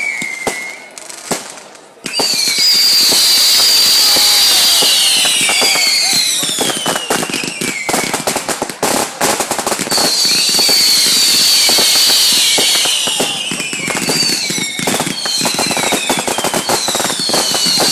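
Firework display. After a brief lull, a barrage of crackling fireworks starts about two seconds in, with repeated whistling tones that slide down in pitch, and it keeps going.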